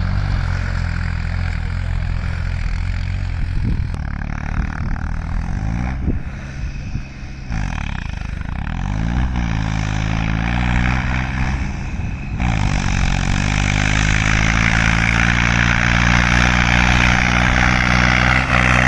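Farmtrac 60 PowerMaxx tractor's turbocharged diesel engine running hard under load. Its speed sags and recovers several times in the middle, then it holds steady and pulls a little louder.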